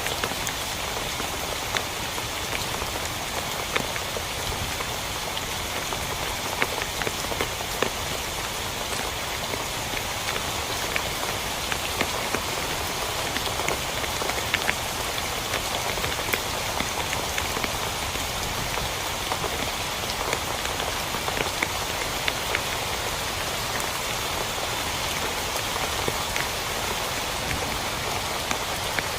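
Steady rain hitting a tent, a dense even hiss with many sharp single-drop taps standing out, a few of them louder.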